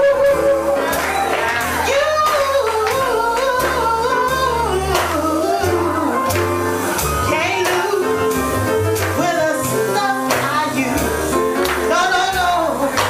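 Live jazz band playing: a walking bass line in D minor under drums with cymbal strokes and keyboard, while a woman sings a winding melody over it.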